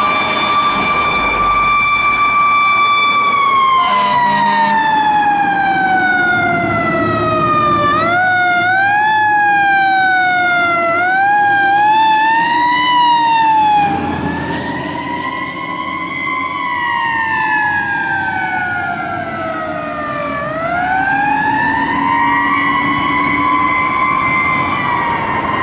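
Fire engine siren on a 1995 KME pumper. It holds one pitch at first, then winds slowly down. Around the middle it gives several short rising chirps, then falls away again and climbs back up near the end.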